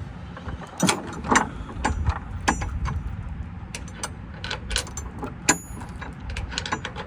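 Irregular sharp metallic clicks and clanks, a couple of them loud, over a steady low rumble like a truck engine running.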